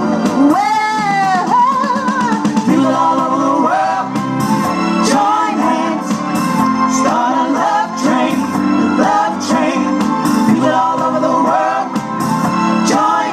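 A recorded song: a voice sings over a full band with a percussive beat.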